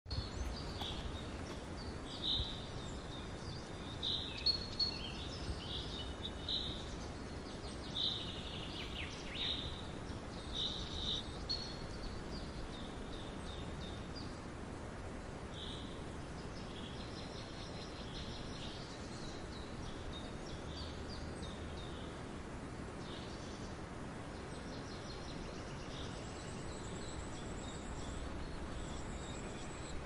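Small birds chirping: short, high calls over a steady background hiss, busiest in the first twelve seconds or so, then sparser and fainter.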